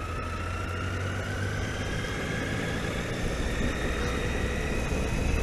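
Triumph Tiger motorcycle riding along, heard from the onboard camera: a steady low engine and wind rumble, with a faint whine that rises slowly in pitch as the bike gathers speed.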